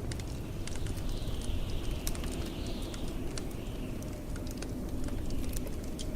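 Wood fire crackling with scattered sharp pops over the steady low rumble of blizzard wind; a fainter, higher gust of wind whistles, rising and falling, from about a second in.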